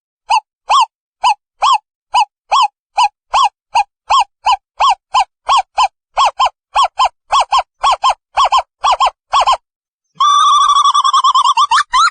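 Owl calling: a long series of short hoots, about two to three a second, that quicken into pairs. After a brief pause near the end they give way to a rapid trill.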